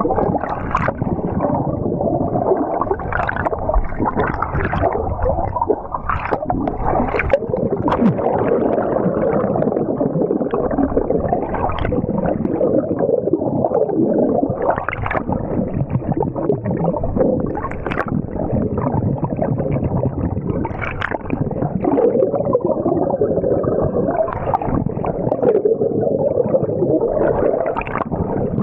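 Water sloshing and gurgling close to the microphone, muffled and continuous, with short splashes scattered throughout.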